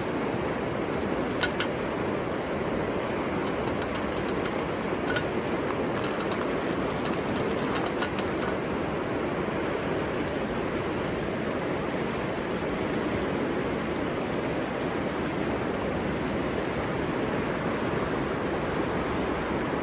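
River water rushing steadily, with a few sharp clicks scattered through the first eight seconds or so.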